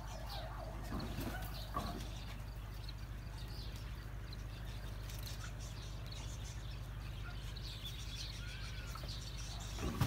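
Small birds chirping on and off over a steady low hum, with two brief louder sounds about one and two seconds in.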